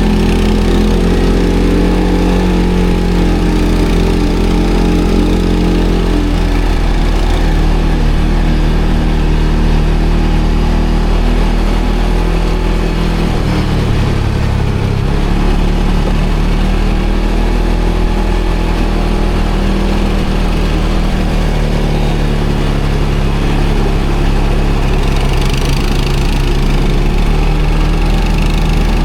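ATV engine running at low revs, its pitch dropping about six seconds in as the throttle eases off, with a brief change in the engine note around the middle.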